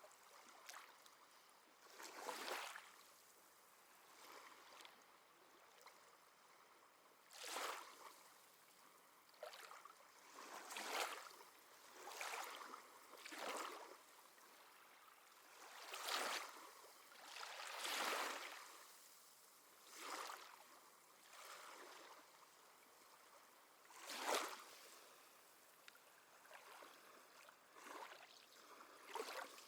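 Small sea waves lapping and splashing at the shore in soft, irregular surges, one every one to three seconds.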